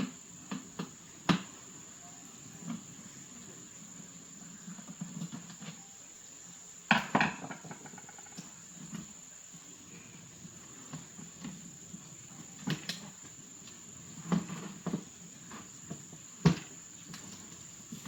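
A steady high insect drone, typical of crickets, with scattered clicks and knocks of parts and tools being handled during a repair.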